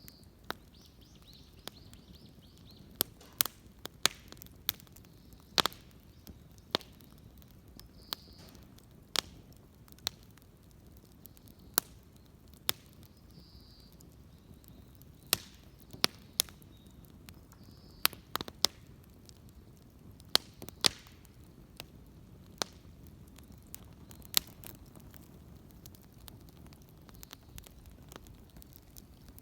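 Wood bonfire crackling: sharp, irregular pops and snaps, a few of them much louder than the rest.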